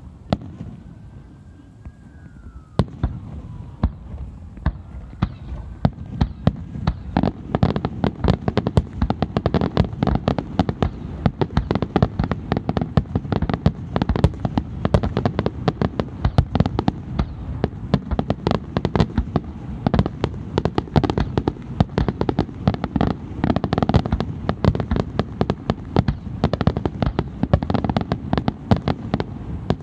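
Fireworks going off: a faint gliding whistle in the first few seconds, then from about three seconds in a dense, rapid run of bangs and crackling bursts that keeps up without a break.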